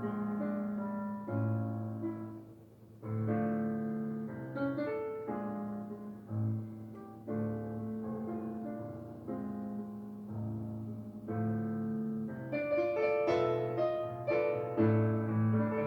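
Background piano music: slow chords over a held bass line, in phrases with a brief pause about two and a half seconds in.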